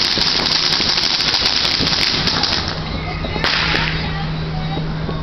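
Fireworks crackling: a dense, rapid crackle of many small pops that thins out after about two and a half seconds, then one sharp crack about three and a half seconds in.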